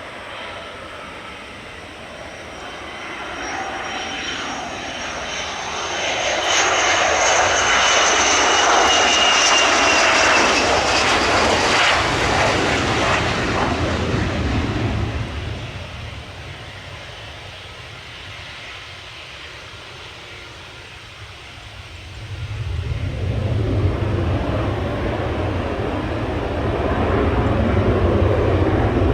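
Sukhoi Su-30's twin jet engines: a loud pass with a high whine, slowly falling in pitch, that fades away, then a deep rumble that builds about three quarters of the way through as the fighter powers up to take off again after landing.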